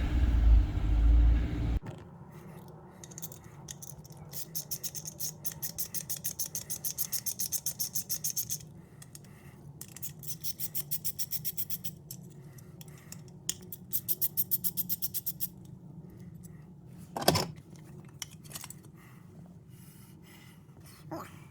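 Ratchet spanner clicking quickly in three runs while undoing the bolts that hold the window regulator and motor assembly, followed by a single knock about 17 seconds in.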